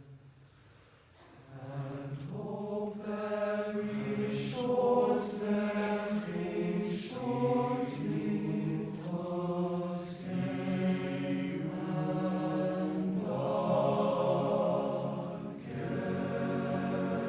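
Choir of voices singing slow, long-held notes of a sea shanty, the words no longer clear. There is a brief lull about a second in, then the singing returns and carries on, changing note every second or two.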